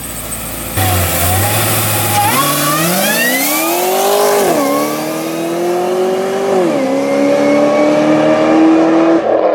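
Cadillac CTS-V accelerating hard, its engine revving up loudly through the gears. The pitch climbs, drops at an upshift about four and a half seconds in and again near seven seconds, then climbs again.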